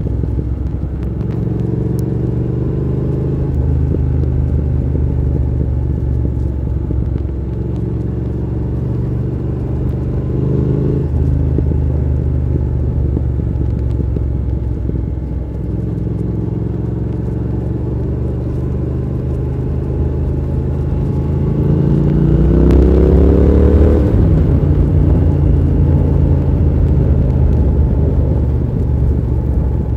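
Triumph Thruxton R 1200's parallel-twin engine running under way, its revs climbing and falling several times, with the longest, loudest climb about three quarters of the way through before the pitch falls away sharply. A steady rush of road and wind noise runs under it.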